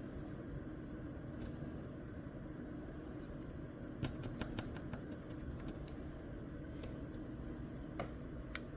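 Scratch-off lottery ticket being scratched, with a run of short scrapes across the card about four to six seconds in and two more near the end, over a steady low hum.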